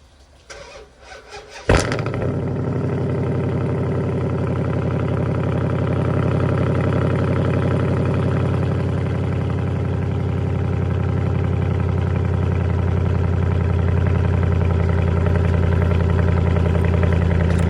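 Cold start of a 2014 Dodge Charger R/T's 5.7-litre Hemi V8, straight-piped with no catalytic converters: the starter cranks for about a second, the engine catches with a sharp loud flare, then settles into a loud, steady cold idle that grows slightly louder near the end.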